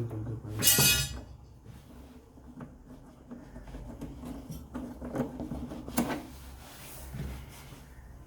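Clattering and knocking of washing machine parts being handled during a repair, with a brief harsh scrape about a second in and a sharp knock about six seconds in, over a low steady hum.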